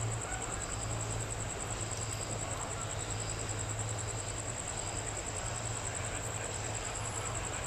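Crickets or other insects trilling in a steady, high-pitched chorus over a low, steady hum.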